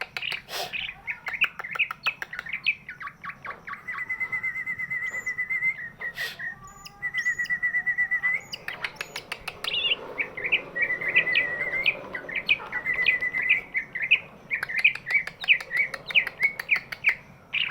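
Cucak ijo (greater green leafbird) singing a rapid, varied song of chirps and sharp notes, with two fast even trills in the middle, then a busy run of mixed notes.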